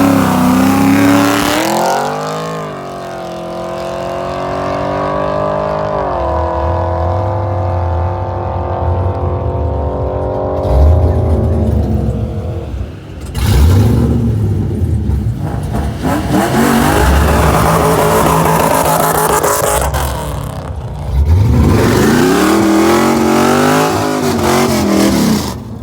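Car engine revving and accelerating, its pitch climbing, holding, then falling and climbing again several times, with a couple of sudden loud bursts of noise about halfway through.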